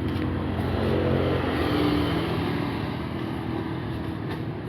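Steady engine and road noise of a moving vehicle, swelling a little about a second in.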